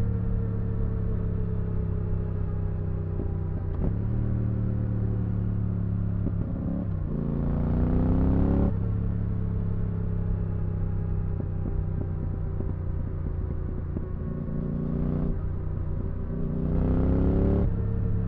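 2022 Yamaha R7's 689 cc CP2 parallel-twin engine through an IXIL Dual Hyperlow exhaust with dB-killer fitted, running under way. The pitch sinks slowly, then twice the engine pulls up in revs and louder for a second or two before the pitch drops suddenly, as on a gear change.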